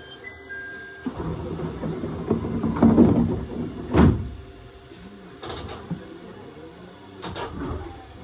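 Sliding doors of a 701 series electric train closing. A building rush and rumble ends in a sharp thud about four seconds in, and two fainter clunks follow.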